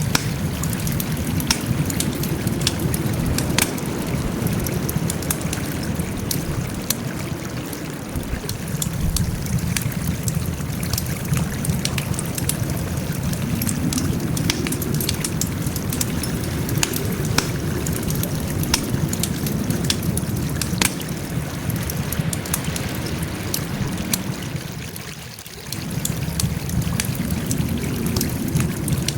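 Wood fire crackling: a steady low rush of burning with frequent sharp pops and snaps throughout. The rush briefly drops away about 25 seconds in, then returns.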